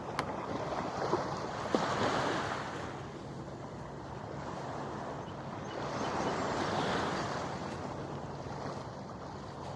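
Waves washing onto the shore in slow surges, one building about two seconds in and another around seven seconds, with wind buffeting the microphone. A few short clicks sound in the first two seconds.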